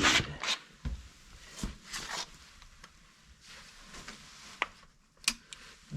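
Scattered light clicks, knocks and rustling as a chainsaw is handled and readied for a start.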